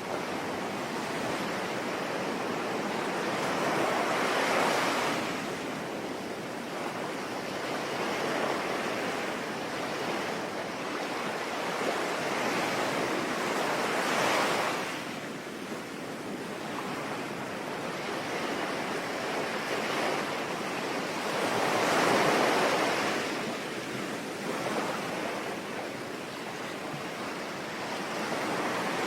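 Sea waves breaking and washing in, three slow swells about eight to ten seconds apart, over a steady hiss of rain.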